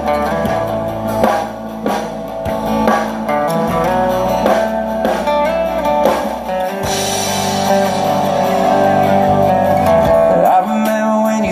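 Country-rock band playing the instrumental intro of a song, guitar leading over bass and drums. A bright cymbal wash comes in about seven seconds in.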